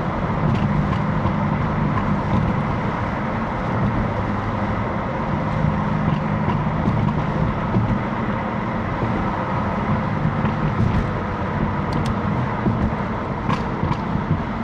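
BMW F80 M3's twin-turbo straight-six running steadily at low revs while driving, under an even haze of road noise.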